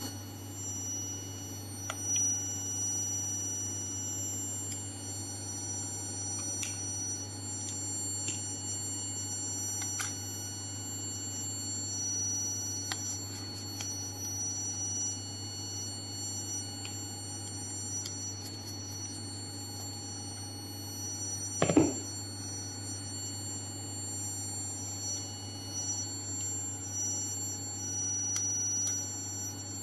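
Vibratory stress relief exciter motor running: a steady low hum with steady high-pitched whine tones and a few faint clicks. One loud knock comes about two-thirds of the way through.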